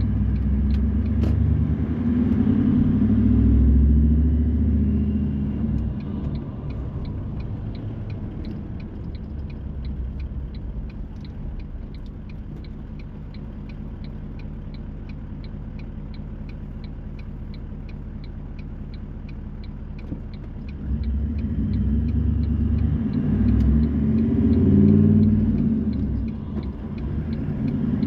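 Car cabin sound while driving: a low road and engine rumble that eases to a quieter hum about six seconds in and grows louder again about 21 s in. A faint regular ticking, about two or three a second, runs underneath.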